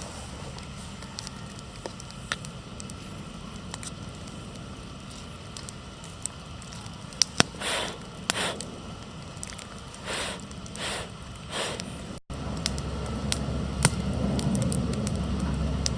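Wood campfire crackling, with scattered sharp pops and a few short louder rushes of noise in the middle. About twelve seconds in there is a cut, and a steadier low rumble continues under the crackle.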